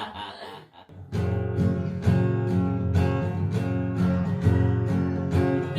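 Background music: strummed acoustic guitar with a steady rhythm, starting about a second in.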